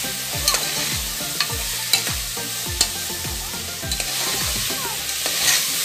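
Drumstick pieces with onion and tomato sizzling in oil in an aluminium pressure cooker, stirred with a metal spoon that scrapes and clinks against the pot several times.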